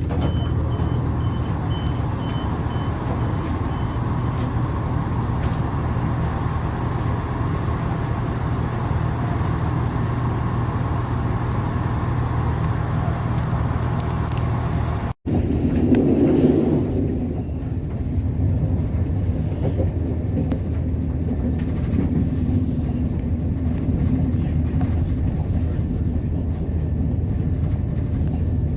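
A train in motion, heard as a steady running rumble with a low engine hum. About halfway through the sound cuts out for an instant, swells louder for a moment, then settles back to the steady rumble.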